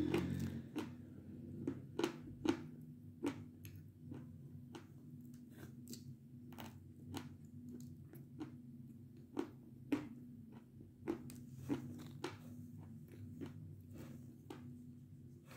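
Close-up chewing of a mouthful of dry lump chalk: irregular sharp crunches and crackles, roughly one or two a second, over a faint steady low hum.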